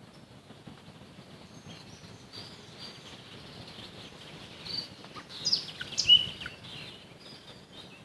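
Nightingale singing over a faint chorus of other birds, with a loud phrase of sharp clicks and whistles about five seconds in.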